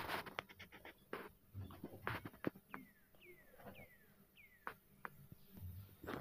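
A few light clicks and taps, and from about the middle four short, falling bird chirps spaced a little over half a second apart.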